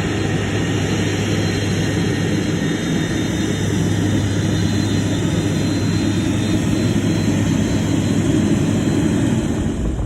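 Jet airliner engines running steadily: a loud, even noise with a low drone underneath.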